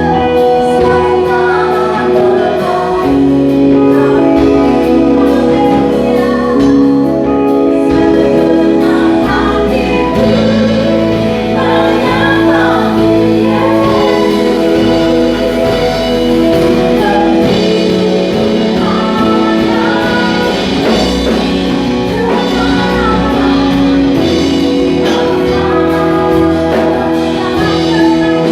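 Live worship music: singers with a band playing a slow gospel praise song, steady and loud.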